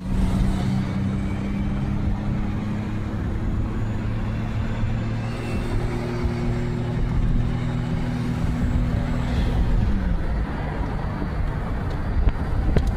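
A motor vehicle engine running steadily, its hum dropping in pitch about ten seconds in, under gusty wind noise on the microphone.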